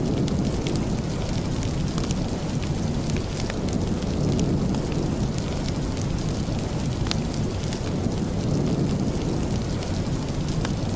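Steady rain with the crackle of a wood fire in a fireplace: an even low rush with scattered sharp pops and snaps at irregular moments.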